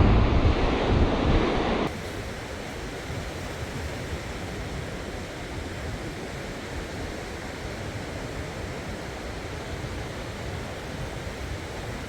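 Sea surf washing on the shore with wind on the microphone. A louder rush of noise in the first two seconds cuts off suddenly, then a steady wash of surf and wind.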